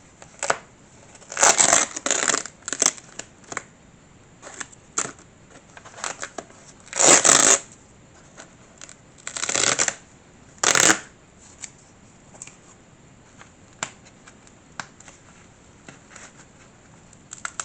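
Wrapping material rustling and crinkling in several short bursts, with small clicks and taps between, as a scale-model engine is unwrapped from its packaging.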